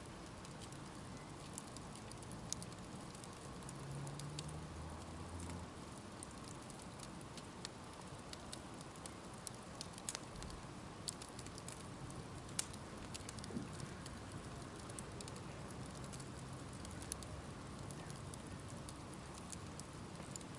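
Wood bonfire burning with a soft steady hiss and irregular sharp crackles and pops, a few each second.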